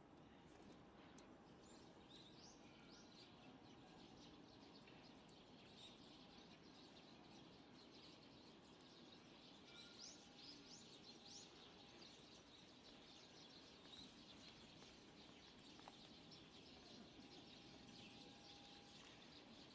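Faint background noise with small birds chirping a few short, rising, high notes, in one cluster about two seconds in and another about ten seconds in.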